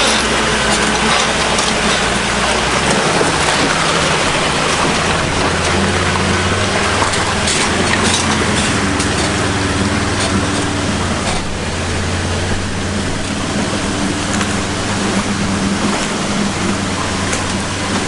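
A four-wheel drive's engine running at a low, steady pitch that shifts a few times, under a constant loud rushing noise.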